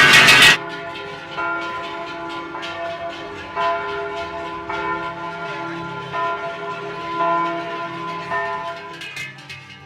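Many Swiss cowbells clanging and ringing together at several pitches, irregular strikes with long ringing tones, as a herd of cows passes. It opens with a loud rush of noise that cuts off about half a second in.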